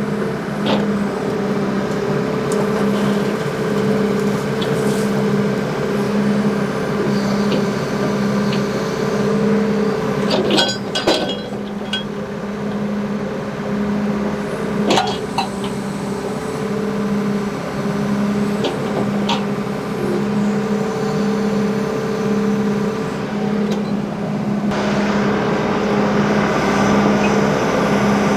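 John Deere 310G backhoe's four-cylinder diesel engine running steadily under working load, with a few sharp metallic clinks about 11 and 15 seconds in. It gets louder about 25 seconds in as the engine takes on more load.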